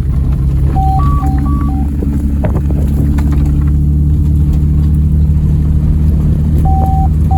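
A 1995 Mercedes-Benz E320 running steadily as it is driven over a dirt trail, heard from inside the car. A short pattern of alternating two-tone beeps sounds twice, about a second in and near the end.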